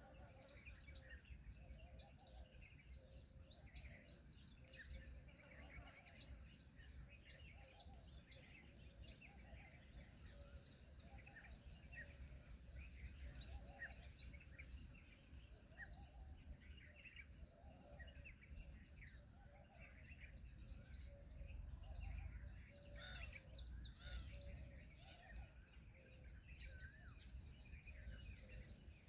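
Faint chirping and twittering of several small birds, in quick runs of high notes, over a low steady rumble.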